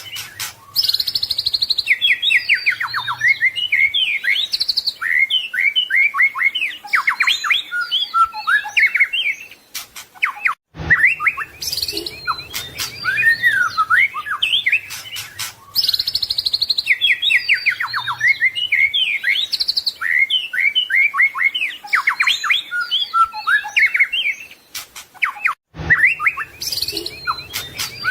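White-rumped shama (murai batu) singing a rapid, varied song of sweeping whistles and trills. The same passage repeats about every 15 seconds, a looped recording with a brief drop-out at each join.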